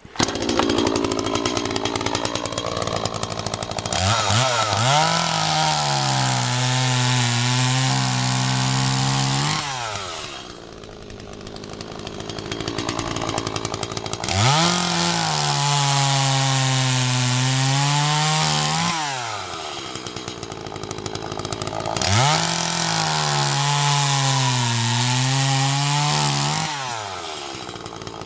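Echo CS-3500 two-stroke chainsaw starting to run at high revs, then cutting through wood three times with a freshly touched-up chain. The engine note drops as it bogs under load at the start of each cut and rises again as it comes free, easing off between cuts.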